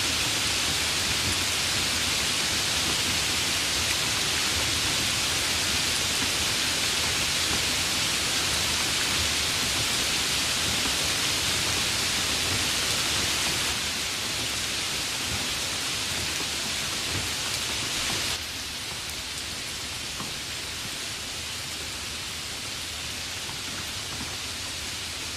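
Steady rain ambience, an even, dense hiss. It drops abruptly in loudness about 14 seconds in and again, more sharply, about 18 seconds in.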